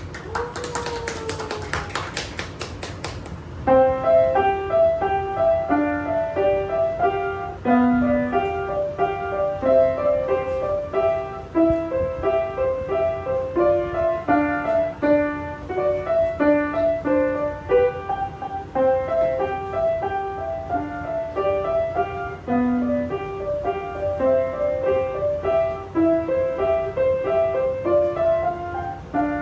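Piano playing a quick etude in steady running notes, starting about three and a half seconds in after a short stretch of noise.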